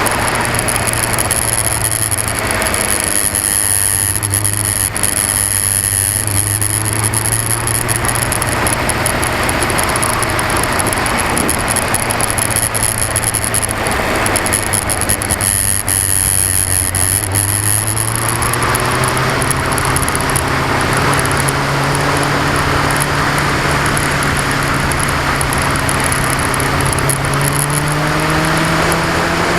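2002 Yamaha R6's inline-four engine running while the motorcycle is under way, over heavy wind rush. Its pitch holds fairly steady, then climbs steadily through the second half as the revs rise. It is heard through an action camera whose mount vibrates, which makes the sound poor.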